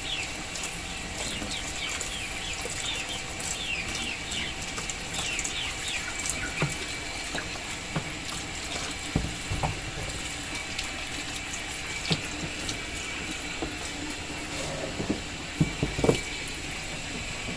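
Water running steadily into a washing machine tub, with birds chirping in quick falling notes in the first several seconds and a few knocks later on.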